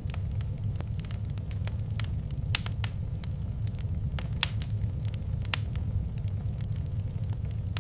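Wood fire crackling in a fireplace: a steady low rumble of flames with irregular sharp pops and snaps, a few louder pops standing out.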